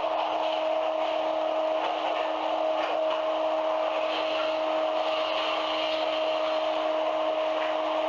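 Running noise inside a 300 series Shinkansen car at steady speed: an even rush with a steady whine held at two pitches that neither rises nor falls.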